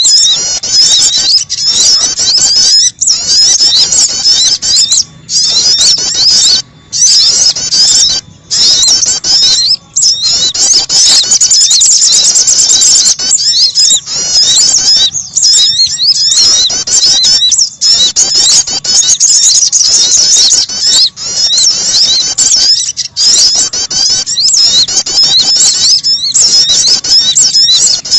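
Bird-lure recording of small songbirds, sogon and prenjak (prinia), calling: loud, rapid, high-pitched twittering chirps, almost unbroken, with a few brief pauses.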